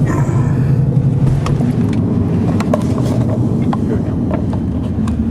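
Car driving, with steady road and engine rumble heard from inside the cabin and scattered sharp ticks over it.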